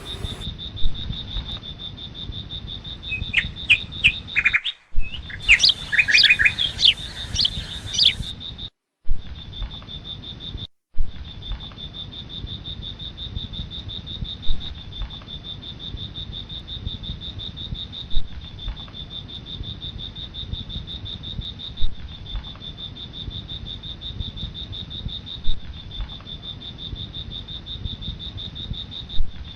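Steady, high, pulsing drone of insects, with a run of quick bird chirps between about three and eight seconds in. The sound drops out briefly three times.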